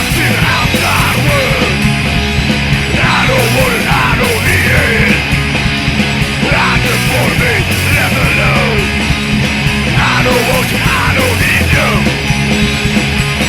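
Loud punk rock recording: distorted electric guitar, bass and drums playing at full tilt without a break.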